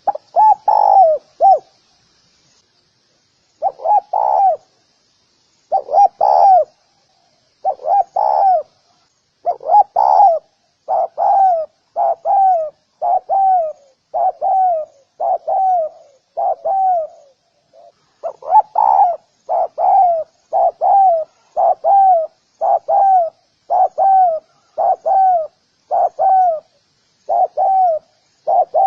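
Spotted dove cooing: a long run of short, slightly falling coos, about one a second, after a two-second pause near the start. A faint high chirping sits under the coos in the first half.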